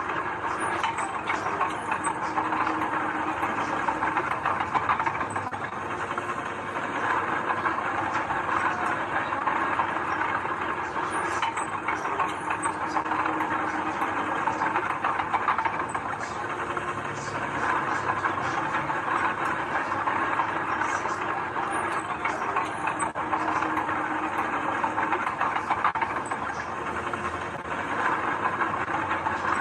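Heavy earthmoving machinery running steadily: a diesel engine working with a continuous rattling clatter over it.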